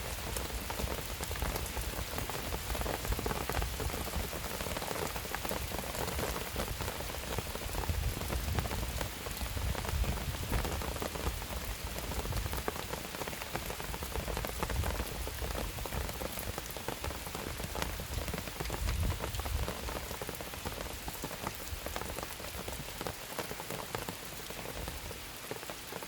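Steady rain pattering, a dense hiss of many small drops that goes on without a break.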